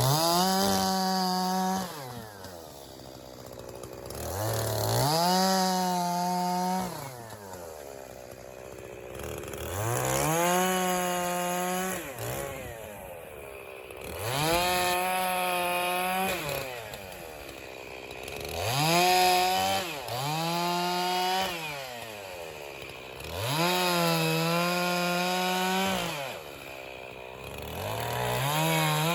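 Echo CS-501P 50 cc two-stroke chainsaw repeatedly revved to full throttle for about two seconds at a time, about six times, dropping back to idle between. These bursts are short bucking cuts through white pine logs.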